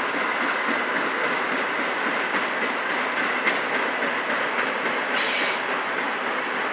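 Autorack freight cars rolling past close by: a steady rumble of steel wheels on rail. There is a sharp click about halfway through and a brief high squeal of the wheels about five seconds in.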